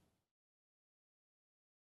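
Silence: a faint room noise fades out in the first moment, then nothing at all.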